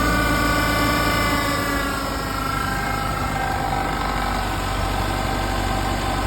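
A 1993 Ford Ranger's 2.3 L four-cylinder engine idling steadily, its pitch easing slightly lower in the first couple of seconds. It runs with no belt squeal on the freshly replaced tensor pulley, idler pulley and belt, a sign that the belt noise is cured.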